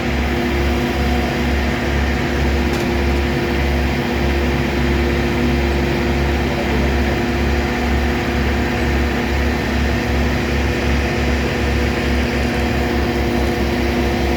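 A heavy vehicle's engine running steadily, with a constant hum and a pulsing low rumble.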